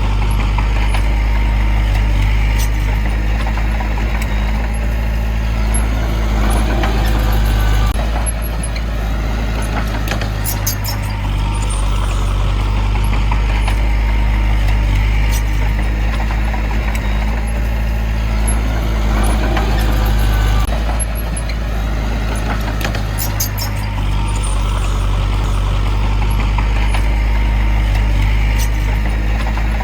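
Heavy construction machine's diesel engine running steadily, its sound swelling and easing about every eight seconds, with sharp clicks now and then.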